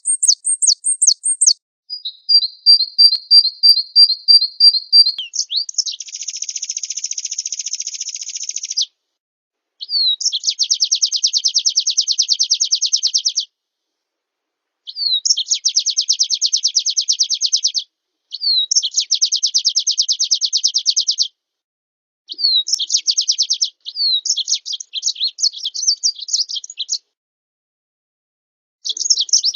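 Small songbird song from an edited training recording: a string of rapid, high trills and rolls, each lasting a few seconds. The phrases are separated by short gaps of complete silence.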